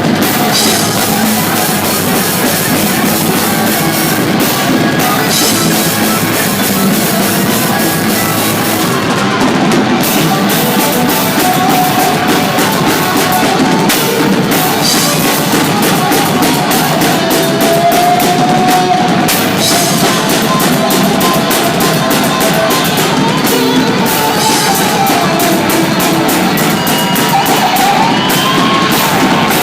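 Loud rock music played by a band: pounding drum kit with bass drum and distorted guitar, with a wavering lead line over it.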